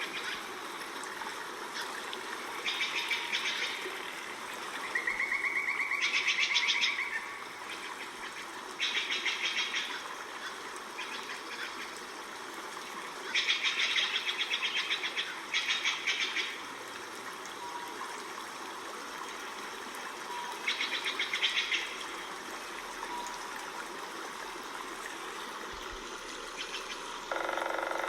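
Forest ambience: birds giving rapid, high trills of a second or two each, repeated every few seconds over a steady background hiss. A lower, louder call comes in near the end.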